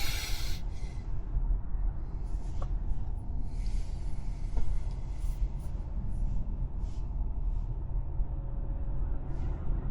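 Tesla driving on the road: a steady low rumble of road and tyre noise, with several faint, brief hisses over it.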